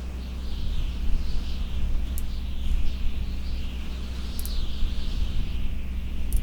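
Outdoor ambience: wind rumbling on the microphone, with a steady low hum and a continuous high-pitched chirping in the background, and a few faint clicks.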